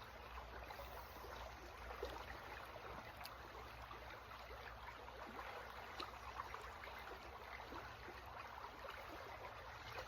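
Small creek running and trickling, a faint steady water sound with small splashes.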